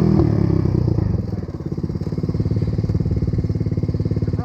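Dirt bike engine coming off the throttle and settling into a steady idle, with evenly spaced firing pulses.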